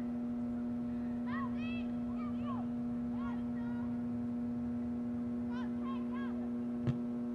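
A steady hum runs throughout. Distant voices call and shout in short bursts, and a single sharp knock comes near the end.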